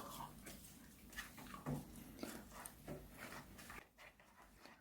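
Faint eating sounds: a few soft mouth and chewing noises with small clicks while fried chicken is being eaten, fading to near quiet in the last second.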